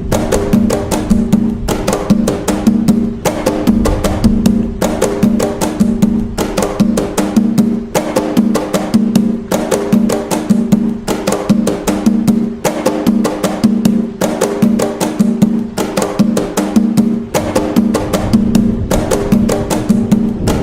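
Atabaque hand drumming in the toque nagô rhythm of Umbanda: a fast, continuous pattern of sharp strokes over deeper pitched drum tones, repeating in a steady cycle.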